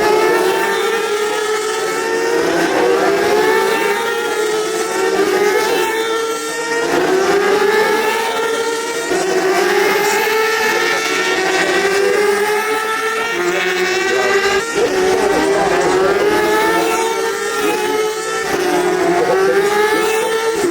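Superbike racing engines at full throttle, several bikes together, their pitch climbing and then dropping back with each upshift, over and over.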